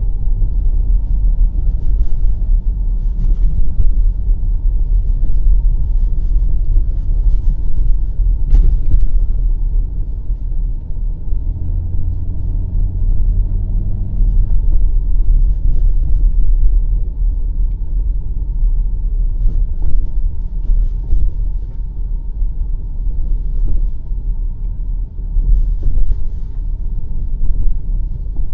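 BMW X5 M50i driving on snowy roads: a steady low rumble of tyre and road noise mixed with the drone of its twin-turbo V8. The engine hum grows steadier and more distinct for a few seconds about halfway through, and a few faint clicks come through.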